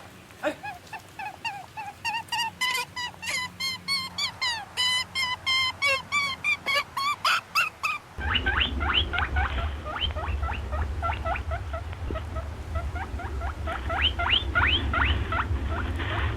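A small animal's high-pitched squeaking calls in quick runs. About eight seconds in the recording changes: a steady low hum comes in under faster, rising squeaks.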